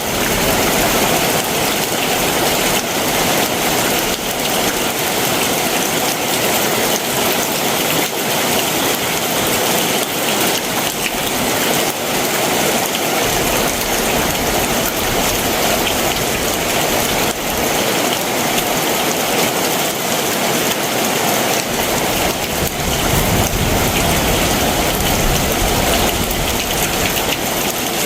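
Heavy summer monsoon downpour pouring steadily, a dense even hiss of rain on surfaces. A low rumble comes in over the last few seconds.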